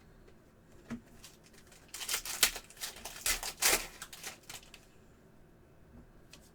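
Foil trading-card pack wrapper being torn open and crinkled: a dense, crackly rustle for about three seconds, starting about two seconds in, after a single light tap.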